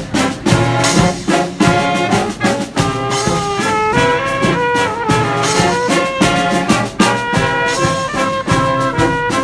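Live brass band playing: trumpets and trombones hold melody notes over a steady drumbeat.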